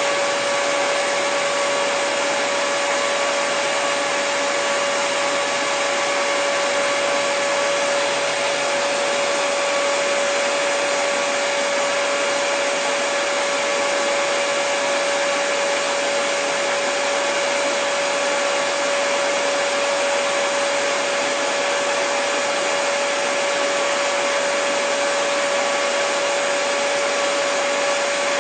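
Hair dryer running steadily: an even rush of blown air with a constant hum-like tone through it, unchanging throughout.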